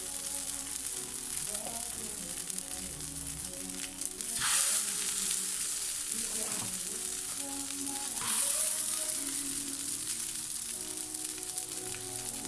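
Arepas sizzling in a hot pan, a steady hiss that swells louder twice and then settles. Soft background music plays underneath.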